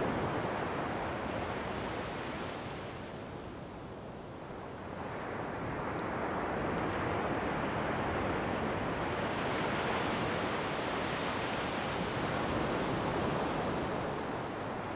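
Ocean surf: waves washing in, the rush easing off a few seconds in and swelling again as the next wave breaks.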